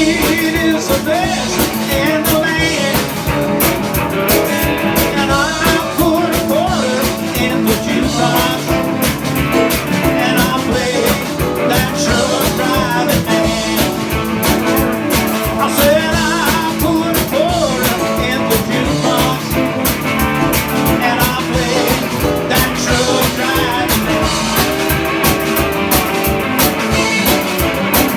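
Live rock and roll band playing, with electric guitar and drums over a steady beat.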